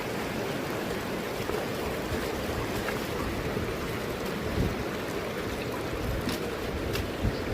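Mountain stream rushing steadily. A couple of short low bumps on the microphone, about halfway and near the end.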